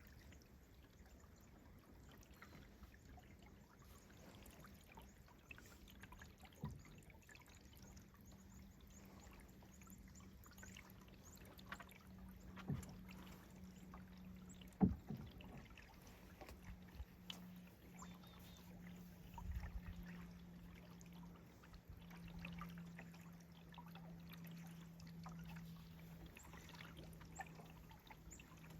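Quiet canoe paddling: faint water sounds from the paddles with a few sharp knocks, likely a paddle against the canoe's hull, over a steady low hum.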